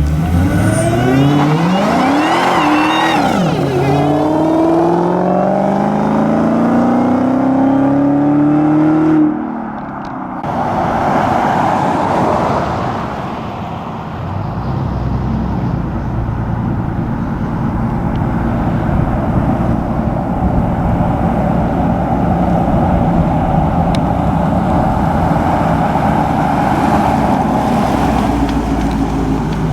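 Supercharged 6.2-litre Hemi V8 of a 2018 Dodge Challenger Hellcat accelerating hard at full throttle from a standing launch: the revs climb, fall back at a gear change about four seconds in, climb again, then drop off sharply about nine seconds in. After that, a steady drone as the car cruises on.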